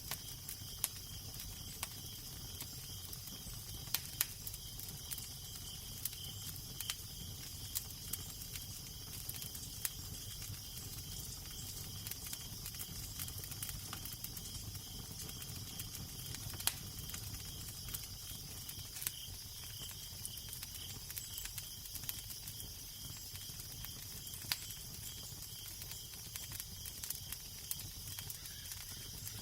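Wood fire crackling, with irregular sharp pops every second or so over a steady hiss and a low wind rumble.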